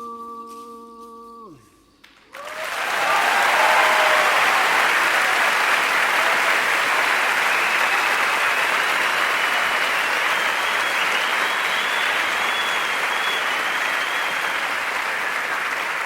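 A held musical chord ends in a falling pitch, then after a short pause a crowd breaks into steady applause that lasts to the end.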